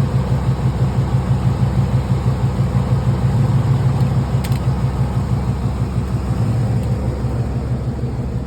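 A vehicle engine idling steadily with an even throb, running to jump-start a dead truck through jumper cables.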